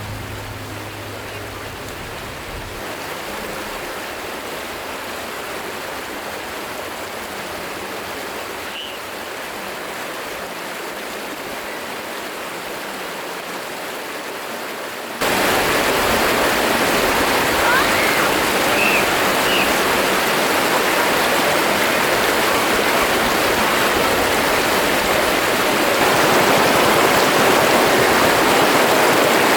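Flowing stream water, a steady rushing noise. About halfway through it jumps suddenly to a louder, fuller rush. A few faint short chirps sound over it.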